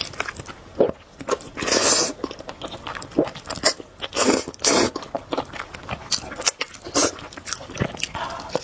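Close-miked eating of noodles: wet chewing and mouth sounds with many short clicks and a few louder bursts, about two seconds in and again around four to five seconds in.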